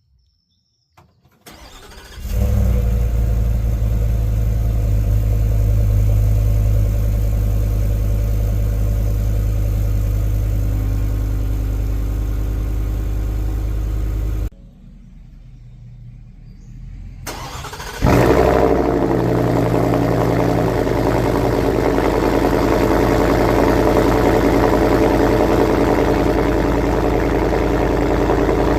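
Ford F-150's 5.0 Coyote V8 with a Corsa Extreme exhaust, cold-started twice. A brief crank, then it catches about two seconds in and idles steadily. About halfway it drops to a quieter sound, then a second cold start catches near eighteen seconds and idles louder and brighter.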